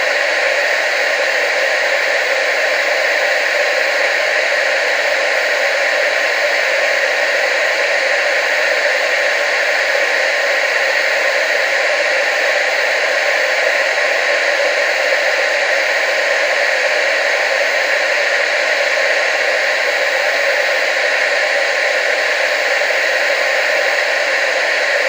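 Television static: steady, unbroken hiss with no low end, strongest in the upper middle.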